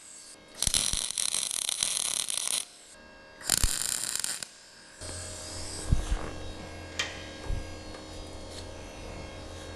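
Two short bursts of arc welding, a crackling buzz lasting about two seconds and then one second, as reinforcing brackets are welded onto a steel table leg. From about halfway a steady low hum sets in, with a few knocks.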